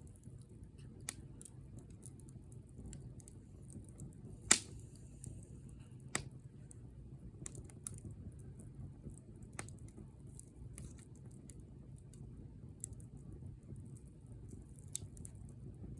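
Wood bonfire crackling: scattered small snaps and pops over a low, steady rumble of the flames, with one sharp loud pop about four and a half seconds in and another a couple of seconds later.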